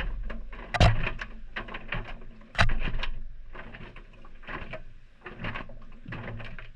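Maytag front-loading washer drum turning on its delicate cycle, heard from inside the drum: the motor hums low while the load drops and knocks against the drum in irregular clattering thumps. The loudest come about a second in and again near three seconds.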